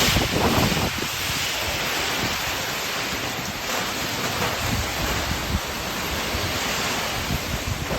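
Heavy rain and wind of a summer thunderstorm as a steady rushing noise, with wind buffeting the microphone and low rumbling in the first second.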